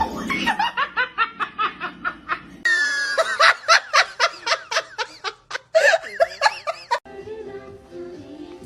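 Laughter in quick repeated bursts, about three or four a second; it turns louder and higher about a third of the way in, then stops abruptly near the end and gives way to quieter sound.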